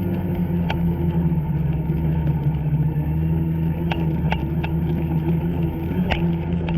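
Two-stroke snowmobile engine running at a steady, even speed, with scattered short sharp ticks over it.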